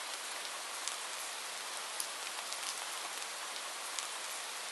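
Steady rain: an even hiss with scattered single drops ticking sharply on a surface, a few times a second at most.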